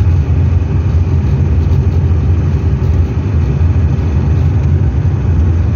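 Hillman Super Minx's four-cylinder engine running at a steady cruising speed with tyre and road noise, heard from inside the cabin: a steady, even low hum.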